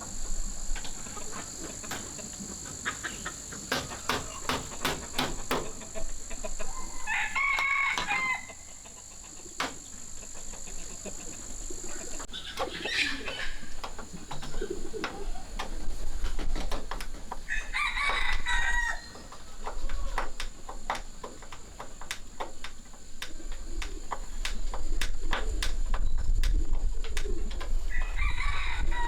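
Rooster crowing four times, spaced several seconds apart, each crow lasting about a second, over scattered sharp clicks and knocks.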